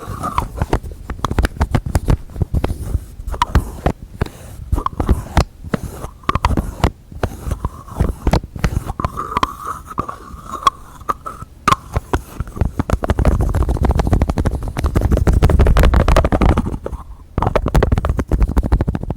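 Close-miked ASMR tapping: rapid, irregular fingertip and fingernail taps on containers and their lids. A denser rubbing and scratching stretch comes about two-thirds of the way in, then stops briefly before the tapping resumes.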